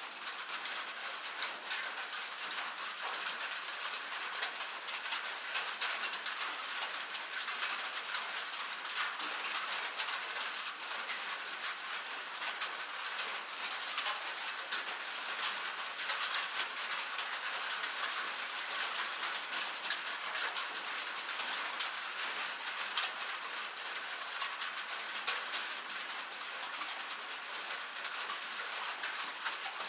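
Steady rain falling on a metal roof: a dense, even stream of small sharp taps over a hiss, mostly high in pitch with no low rumble.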